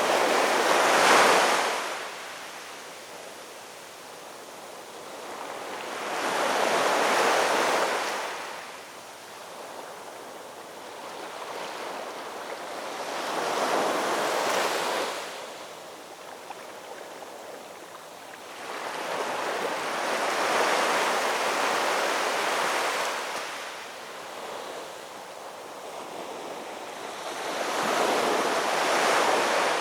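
Ocean waves washing in on a shore: a rushing surge that swells and fades away about every six to seven seconds, five times over.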